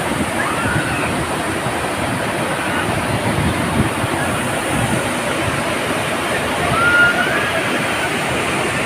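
Jonha Falls waterfall: a large waterfall's falling water rushing and splashing as a steady, dense noise.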